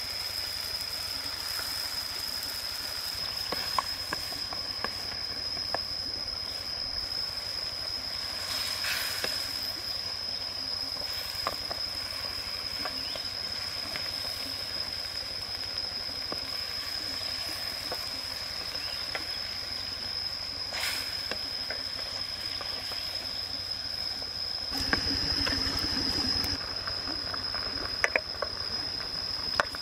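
Cane slices and fish frying in sauce in a wok: a hissing sizzle with scattered pops and wooden-spatula scrapes, under a steady high-pitched whine. A louder stretch comes near the end.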